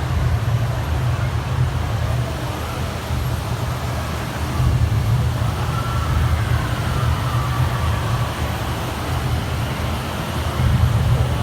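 Steady low roar of the Rain Vortex, a large indoor waterfall pouring down through the dome, with a faint murmur of crowd voices.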